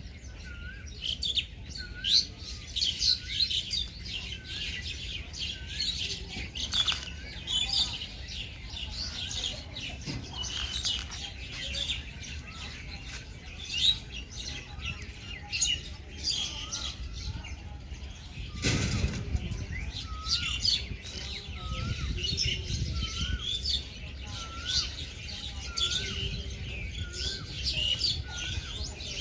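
Many birds chirping together in a dense chorus, with one bird repeating a short rising call about every second and a half, over a steady low rumble. A brief louder noise comes about two-thirds of the way through.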